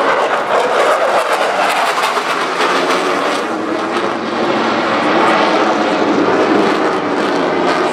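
Loud jet noise from a Dassault Rafale C's twin Snecma M88 turbofans during its flying display. The noise is continuous and its main rush sinks somewhat lower in pitch through the middle.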